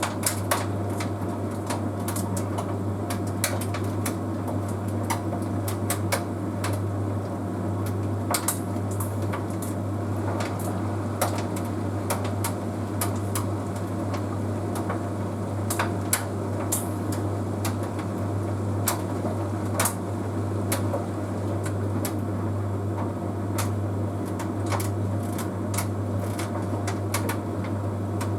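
Bosch Series 6 heat pump tumble dryer running with a steady hum, with frequent irregular light clicks and taps from the load turning in the drum. The dryer is in its self-cleaning condenser stage near the end of the cycle.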